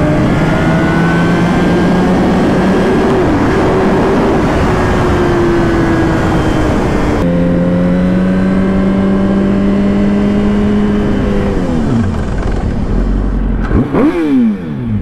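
Motorcycle engine pulling under acceleration over a haze of wind noise. Its pitch climbs slowly, drops sharply at an upshift about seven seconds in, then climbs again. Near the end the revs fall away as the throttle closes, with a few quick rises and falls in pitch as it slows through the gears.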